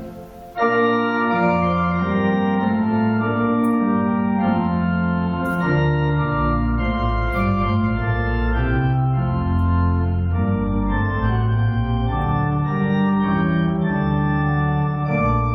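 Church organ playing slow, held chords over a moving bass line, the chords changing every second or so. It comes back in after a brief break just after the start.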